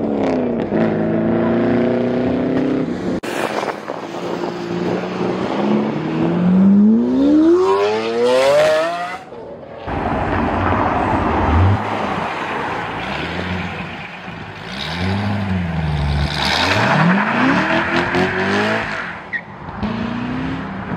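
Car engines accelerating hard, one car after another: a long rising climb in revs, then, after a sudden cut about ten seconds in, a Chevrolet Corvette C6's V8 pulling away, its revs rising and falling as it changes gear.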